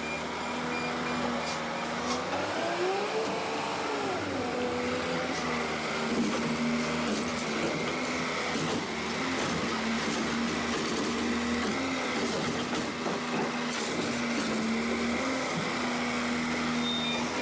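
Automated side-loader garbage truck idling steadily, with a machine whine that rises and falls once about two to four seconds in and wavers a little later.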